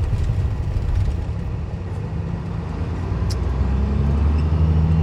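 Peterbilt 379's Cat C-15 diesel engine running under way, heard from inside the cab as a low drone. A steady engine tone comes in about two seconds in and grows a little louder near the end.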